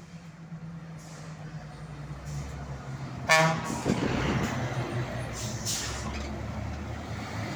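Scania bitruck's diesel engine running, with a short horn toot about three seconds in, then air hissing as the engine gets louder.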